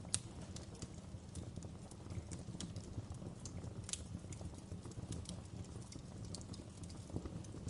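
Wood fire crackling: irregular sharp pops and snaps over a low, steady rumble of burning logs, with one louder pop right at the start.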